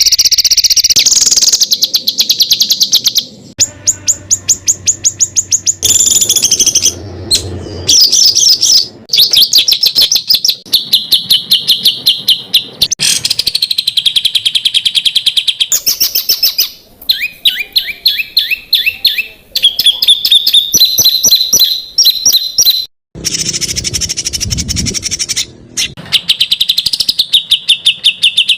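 Songbirds in a spliced masteran recording: one clip after another of rapid, repeated-note 'tembakan' phrases and fast trills, each cutting abruptly to the next.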